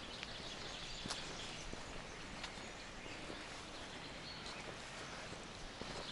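Outdoor forest ambience with faint birdsong and scattered soft footsteps on a forest path.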